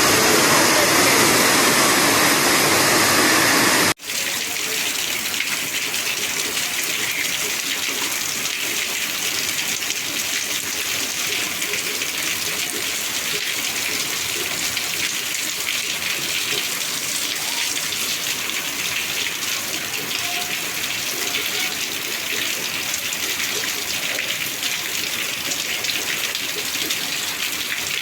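Heavy rain and rushing water: a loud, even rush that cuts off abruptly about four seconds in, followed by steady pouring rain with a fine, dense patter.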